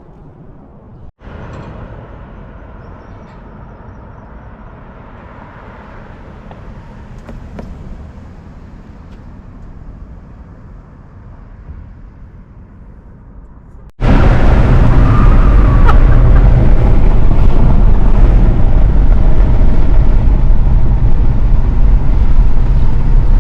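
Low, steady vehicle and outdoor noise. After a cut about fourteen seconds in, a car's running noise becomes much louder, with a heavy low rumble.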